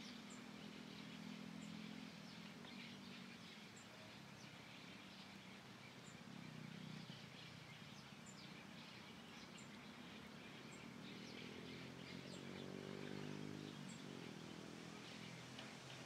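Faint outdoor birdsong: a thin, very high chirp repeated every second or two over soft twittering. Under it runs a low, distant engine-like hum that swells and fades near the end.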